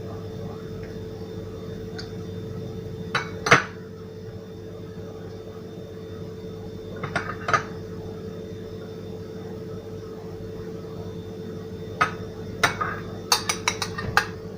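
Dishes and utensils clinking and knocking during food preparation: a couple of short clatters in the first half, then a quick run of clinks near the end, over a steady low hum.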